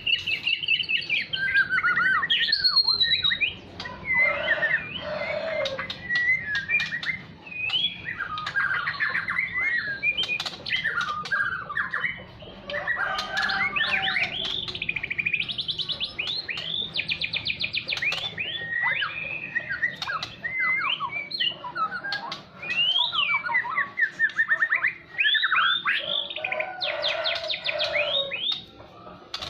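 White-rumped shama (murai batu) singing a long, varied song almost without pause: rapid trills, quick rising and falling whistles and harsh chattering notes, one phrase running into the next.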